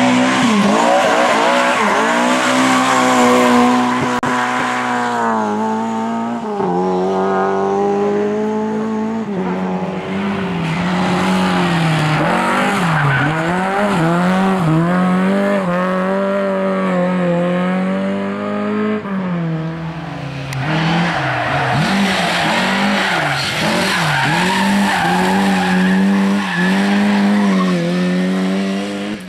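Lada rally car engines revving hard, the pitch repeatedly climbing and dropping back through gear changes and lifts as the cars take corners. Tyre squeal and skidding noise come and go, strongest at the start and again toward the end.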